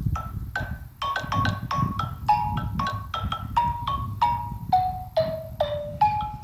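Xylophone played with mallets: single struck notes, about three a second, in a melody that steps downward to its lowest note a little before the end and then climbs again, over a steady low rumble.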